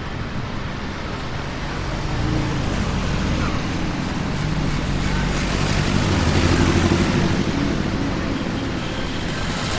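A car driving at low speed, its engine and tyre noise building to a peak about six to seven seconds in, then easing off.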